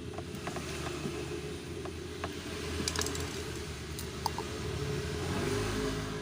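Scattered small clicks and ticks of a screwdriver and screws working on a plastic car headlamp housing during reassembly, with a cluster of clicks about three and four seconds in, over steady background music.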